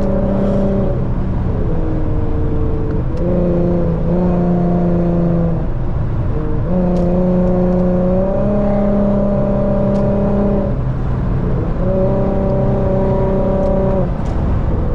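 Infiniti car engine and exhaust pulling hard under throttle, its pitch holding, then stepping up or down several times as revs and gears change.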